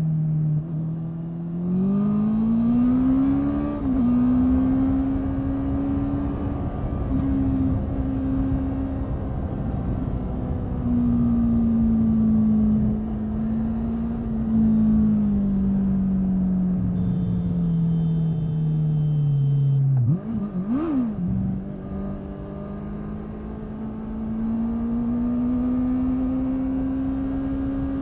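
Honda 650 inline-four motorcycle engine under way. The revs climb about two seconds in, drop with an upshift, then hold and slowly fall. Near the middle they dip and jump in a quick rev blip on a downshift before climbing again, over steady wind and road noise.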